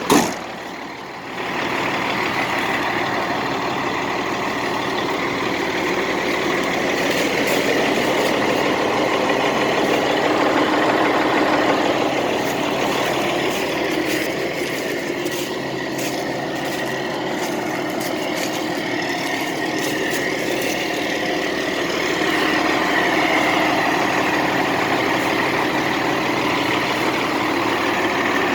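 Cat C12 inline-six diesel engine of a 2000 International 9100 truck running steadily, swelling a little in level a couple of times. A short sharp sound comes right at the start, before the engine sound settles in.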